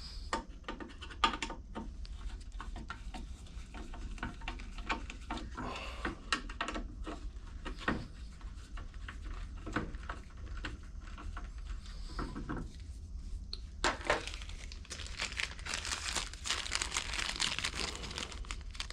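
Hands handling small carburetor parts: scattered light clicks and taps, then about four seconds of crinkling starting near the end.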